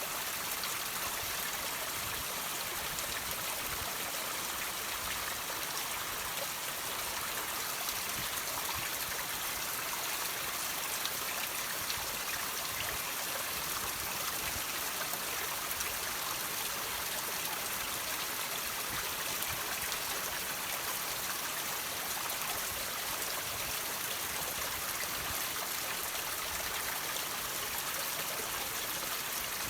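Water dripping and trickling off rocks, a steady even rush of running water with scattered small drips.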